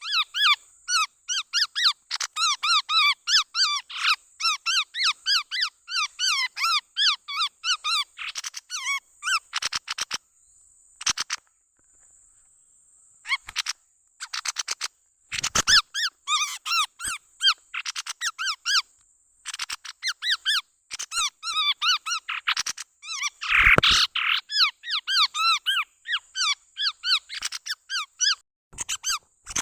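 Chestnut-rumped babbler (tepus tunggir merah) calling in rapid runs of short, high chirping notes, several a second. The calling breaks off for a few seconds about ten seconds in, then resumes. A steady thin high hiss runs underneath.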